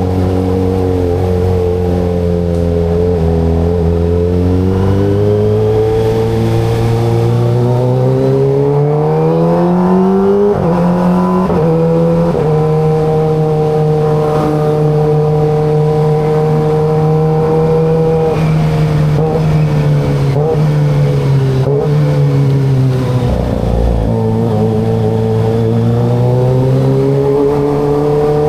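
Kawasaki ZX25RR's inline-four engine and exhaust under way: the engine pitch climbs slowly for about ten seconds, changes gear a couple of times around a third of the way in, holds steady at a cruise for several seconds, drops as the bike slows, then climbs again near the end.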